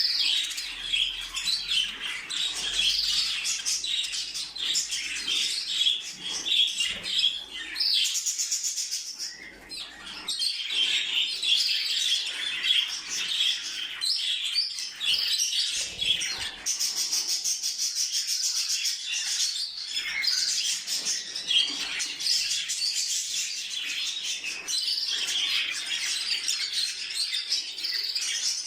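A group of small pet birds chirping and chattering without a break, with stretches of fast, buzzy warbling.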